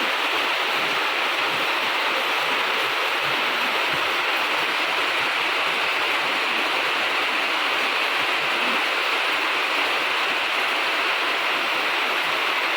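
Steady rain falling, a dense, even hiss that holds level throughout.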